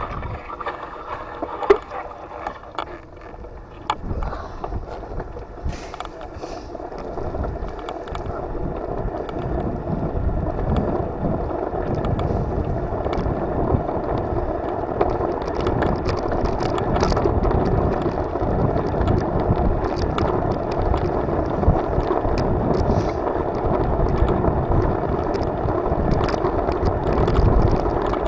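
Steady rushing of wind over the microphone with a low rumble while riding. It grows louder from about eight seconds in, and a few sharp clicks come in the first few seconds.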